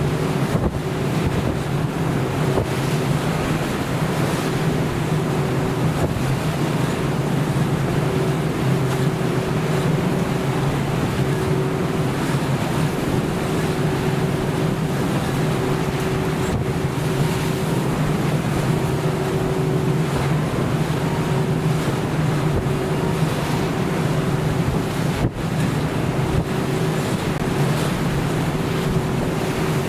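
A ship's engine droning steadily at sea, with waves washing and wind buffeting the microphone.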